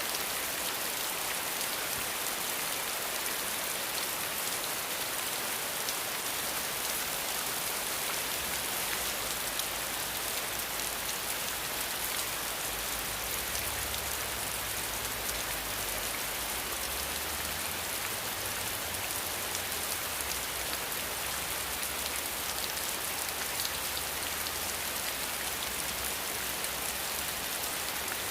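Steady heavy rain, an even dense hiss of falling drops. A faint low rumble sits underneath through the middle.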